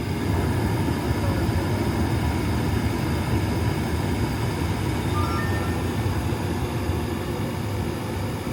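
HVAC air handler's blower running steadily, a loud low rush of moving air with a faint hum.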